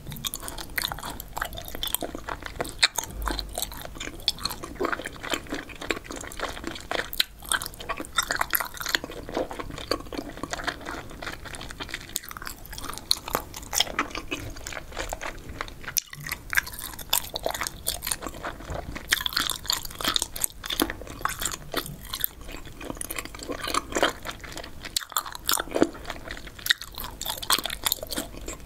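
Close-miked chewing of spicy Korean stir-fried pork skin: a continuous run of dense, rapid wet clicks and crackles from the mouth.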